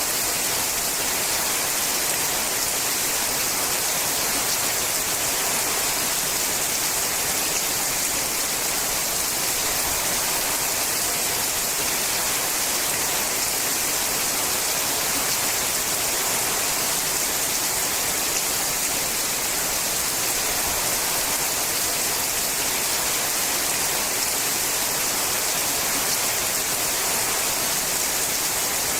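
Rain falling steadily on a sheet-metal roof: an even, unbroken hiss.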